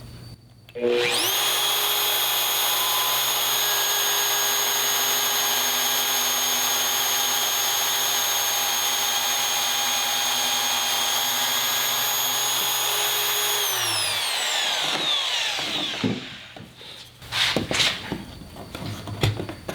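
An electric power tool's motor starting up, running steadily with a high whine for about twelve seconds, then switched off and winding down in pitch. Several knocks and clatters of wood being handled follow near the end.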